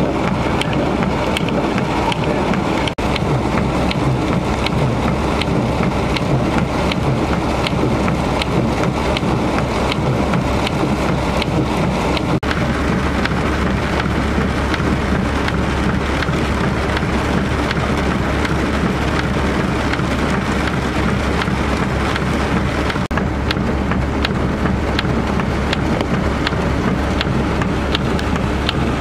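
Heavy rain falling steadily over a low, steady vehicle engine hum, with a regular run of light ticks. The sound shifts abruptly a few times.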